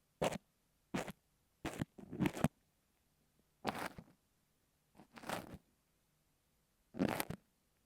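An ear pick and kinetic sand scraping against an earphone microphone, in slow, separate strokes. There are about seven short gritty scrapes with silence between them.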